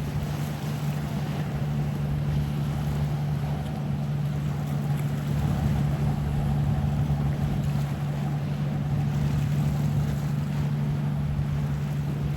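A boat engine running steadily, a low even hum, with wind and water noise over it.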